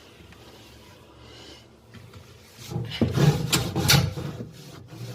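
Plastic fridge containers being rubbed and scraped while wiped with a small towel: a short run of loud, irregular scrubbing strokes starting a little before halfway through.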